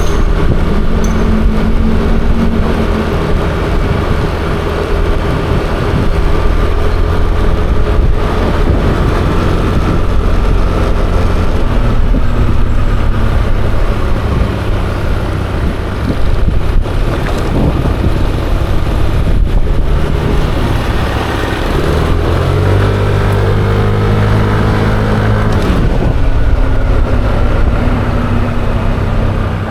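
Riding a Yamaha Aerox 155 scooter: its single-cylinder engine hums under heavy wind rumble on the microphone, its note rising and easing off a few times with the throttle, amid road traffic.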